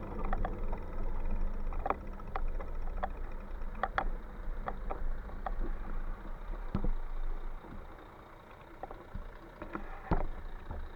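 Riding noise from a moving bike: a low rumble of wind and road with scattered sharp clicks and rattles. The rumble eases about two-thirds of the way through.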